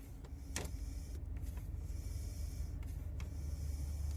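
BMW E46 engine idling: a steady low rumble, with a few light clicks about half a second in and again near the end.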